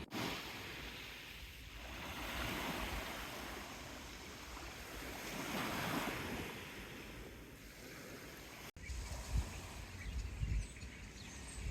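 Sea waves washing in, swelling and fading twice. After an abrupt cut there are a few low rumbles of wind on the microphone.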